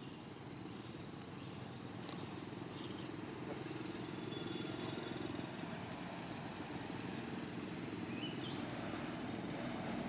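Steady low hum of a motor vehicle engine running, swelling slightly about halfway through, with a faint short high chirp near the end.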